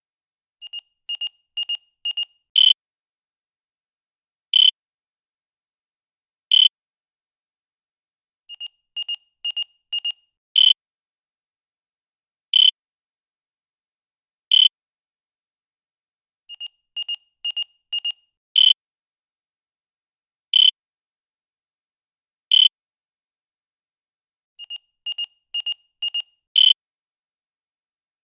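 Electronic countdown-timer beeps: a short, high beep every two seconds. Before every fourth beep comes a quick run of quieter pips that grow louder.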